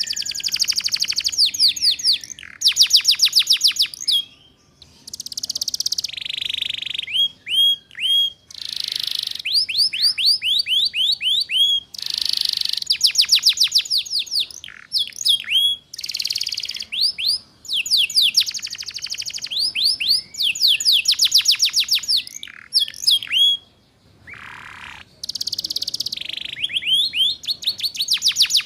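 Canary singing a fast, varied song in the ngeriwik style: rapid trills of repeated high notes, about a dozen a second, alternating with sharp separate chirps, in short phrases with brief pauses between them.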